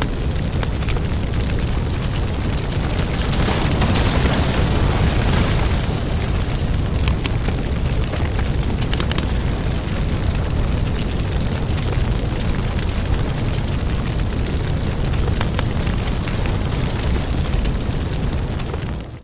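Fire burning in a fireplace: dense crackling with frequent small pops over a steady low rumble.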